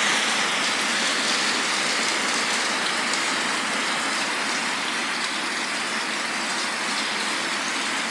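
Steady rain falling, an even hiss of rainfall that holds without a break.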